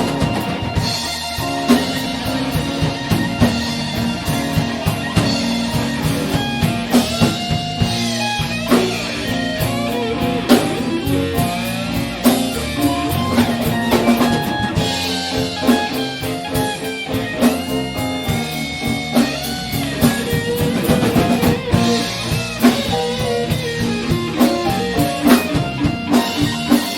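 Live band playing an instrumental break in a blues-flavoured song: a guitar plays lead lines with bent notes over a drum kit and bass.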